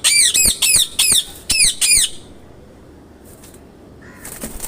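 Parakeet squawking: a quick run of sharp, arching calls for about two seconds, then a pause.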